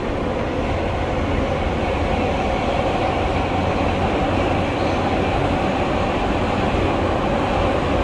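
Steady running noise of an R143 subway car in motion between stations, heard from inside the car: an even rumble of wheels on rail with a steady hum.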